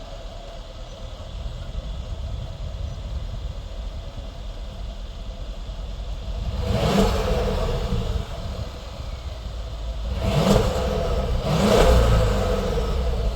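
Mercedes-Benz ML550's M278 twin-turbo V8 idling through its exhaust, then revved in three short blips, about seven, ten and a half and twelve seconds in, the last one the loudest.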